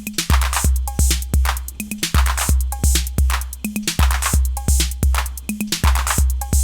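An 808-clone drum machine plays a looping beat about two seconds long: long booming 808 kicks, crisp hi-hat ticks, and low conga hits with a few short pitched accents.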